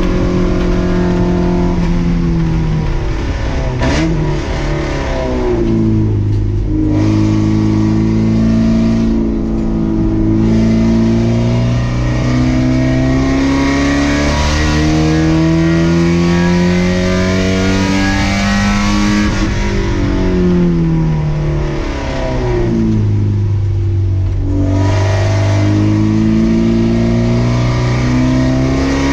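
Race car engine heard from the cockpit under hard driving. The revs climb in long rising runs and fall back sharply on gear changes and lifts off the throttle, several times over.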